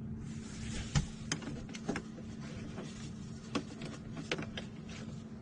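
A string of sharp clicks and knocks, with a faint rustling hiss, over a steady low hum: things being handled at an RV's compressor fridge that has just been opened, before the compressor starts.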